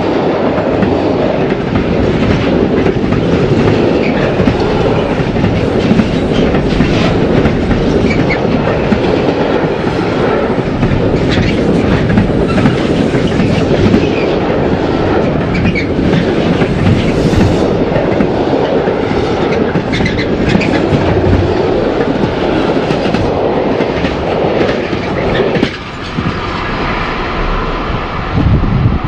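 Train passing close by on a curved track, its wheels clattering over the rail joints in a loud, continuous run; the noise dips briefly near the end, then carries on.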